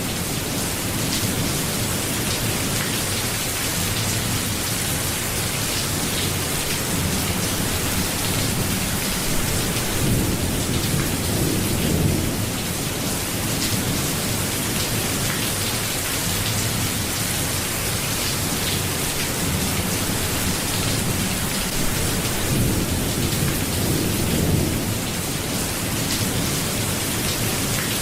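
Steady rain falling, with low rumbles of thunder rolling in twice.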